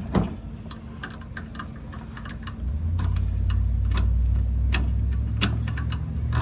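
Light, irregular clicks and taps of hand tools working on a brake booster. A low steady hum comes in about two and a half seconds in.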